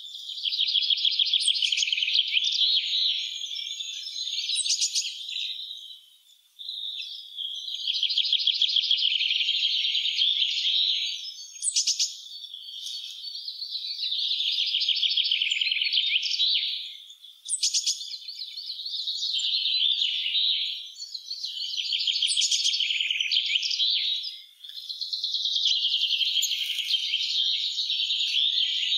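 Songbirds singing in long, rapid trilling phrases a few seconds each, with brief pauses between them.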